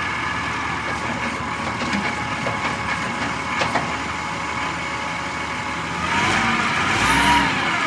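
Wheel loader's diesel engine running steadily, growing louder for about a second and a half near the end.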